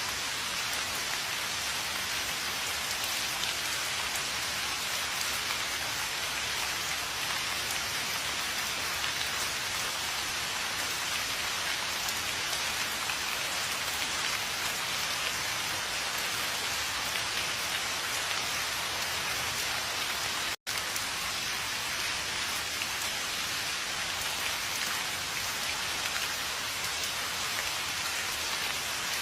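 Steady rain falling, an even hiss with no change in strength. The sound cuts out for an instant about two-thirds of the way through.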